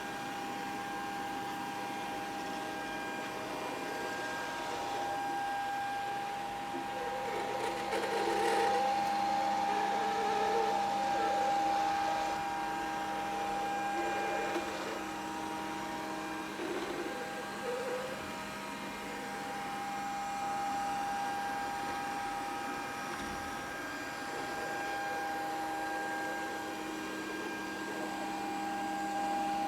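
Grundig VCR 2131 robot vacuum cleaner running: a steady motor whine over a fan hiss, with some brief wavering sounds over it between about 7 and 18 seconds in.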